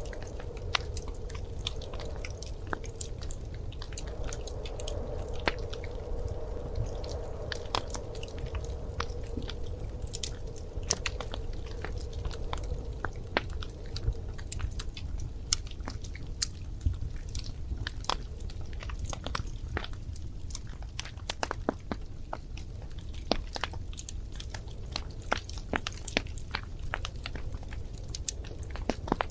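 Wood fire in a fireplace crackling, with irregular sharp pops and snaps over a steady low rumble of the flames. A faint hum sits under it during the first half.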